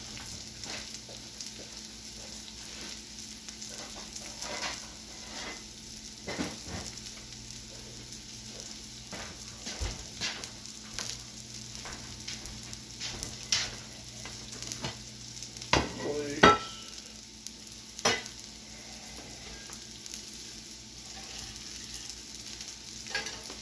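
Sliced bell peppers and onions, with a kielbasa, sizzling on a steel flat-top griddle: a steady frying hiss with scattered crackles and pops, a few louder pops about two-thirds through. Near the end a metal spatula works at the sausage on the griddle.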